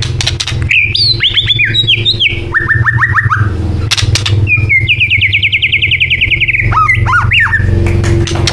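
White-rumped shama singing: a quick run of varied whistled notes, a short series of lower repeated notes, then a long rapid trill that falls slightly in pitch, ending with a few more notes. A steady low hum runs underneath.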